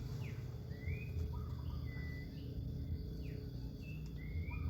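Bird calls: short whistled notes, some sweeping up and some down, about one a second, over a steady low rumble.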